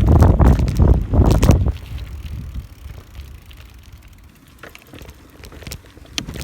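Wind buffeting a phone's microphone while riding a bicycle, loud for the first couple of seconds and then dying down to a quieter rolling noise with a few light clicks and rattles.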